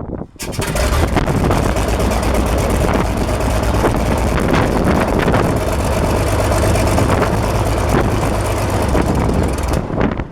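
Renault 6Q-10 inverted six-cylinder aircraft engine of a Nord 1002 running steadily, with propeller wash hissing over the microphone. It comes in suddenly about half a second in and cuts off abruptly near the end.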